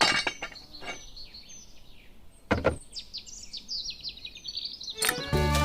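Small birds chirping: a run of short, high, falling chirps, broken by a single sharp knock about two and a half seconds in. Music with a beat comes in near the end.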